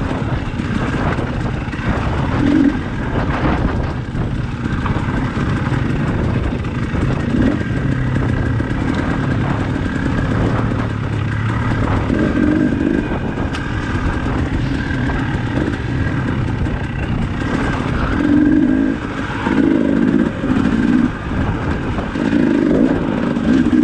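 Dirt bike engine running under load on a rocky climb, the throttle blipped in repeated short bursts that come more often near the end.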